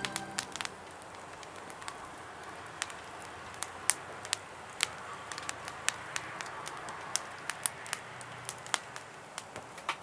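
Hardwood campfire crackling, with irregular sharp pops over a faint hiss.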